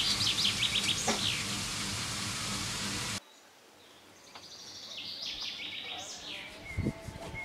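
Small birds chirping in quick trills over a steady background hiss. The hiss cuts off abruptly about three seconds in, and quieter chirping goes on, with a single thump near the end.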